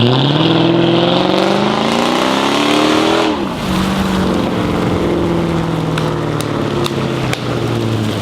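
Supercharged Mercedes E55 AMG V8 accelerating, its pitch climbing for about three seconds, then dropping sharply as at a gear change and running on lower and fairly steady.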